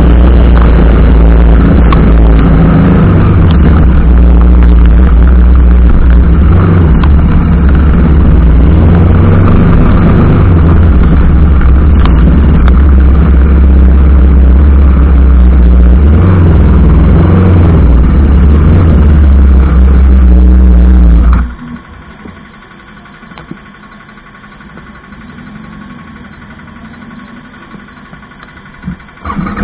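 Riding noise from a TVS Apache RR310 motorcycle, its single-cylinder engine running under heavy, overloading wind rush on the microphone. About 21 seconds in the noise cuts off suddenly to a much quieter steady hum, and it comes back loud just before the end.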